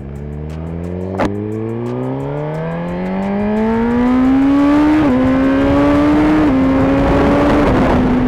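Suzuki GSX-R1000 inline-four engine pulling away under acceleration, its pitch climbing steadily for about five seconds, then two quick upshifts with small dips in pitch before it settles into a steady cruise. A rushing noise builds as speed rises, and there is one sharp click about a second in.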